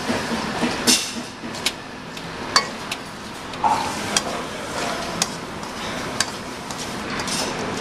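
Dressed shredded-cabbage salad being tossed in a bowl: the leaves rustle steadily while the serving utensils click against the bowl every second or so.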